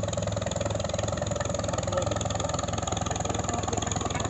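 An engine running steadily at idle, with a fast, even beat that holds unchanged throughout.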